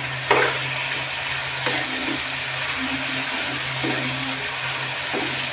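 Taro stolons, prawns and vegetables sizzling in oil in a frying pan while they are sautéed with ginger-cumin paste, with a metal spatula scraping through them a few times, over a steady low hum.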